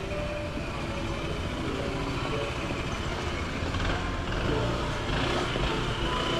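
Street ambience with motor traffic: the steady rumble of road vehicles, swelling about four to six seconds in as one passes close by.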